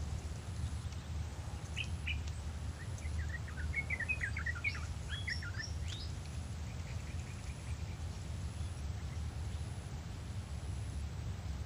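Birds chirping in a quick cluster of short calls between about two and six seconds in, over a steady low rumble.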